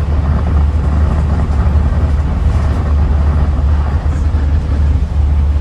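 Scania N94UD Omnidekka double-decker bus heard from inside the passenger saloon: its diesel engine running with a steady, loud low drone under road and cabin rumble.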